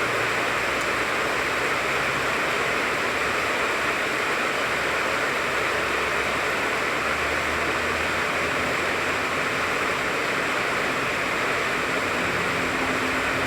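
Steady rain falling on a tangerine tree's leaves, an even hiss of drops. A faint low hum comes in near the end.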